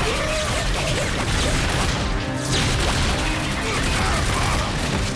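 Dense sci-fi action sound effects: a thick wash of crashes and rushing noise with warbling glides in pitch, mixed over the film score.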